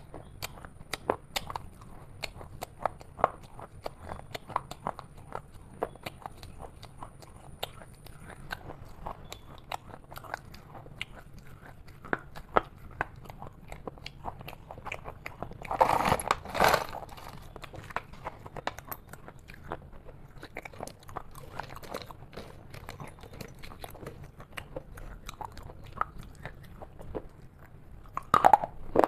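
Close-up chewing and biting of crunchy food: a steady run of short sharp crunches. A louder burst about halfway through lasts about a second.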